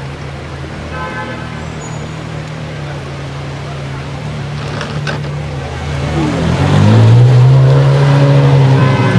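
Gemballa Mirage GT's V10 engine running with a steady low note, then rising in pitch and getting much louder about six seconds in as it revs up, staying loud to the end.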